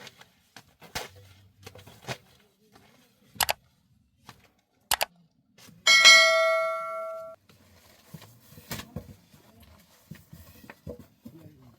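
A metal object struck once, ringing with several bright tones that fade over about a second and a half, among scattered light knocks and clatters.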